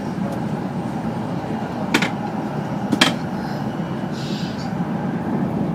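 Kyushu Shinkansen train running at speed, heard from inside the passenger cabin as a steady running noise, with two sharp clicks about a second apart near the middle.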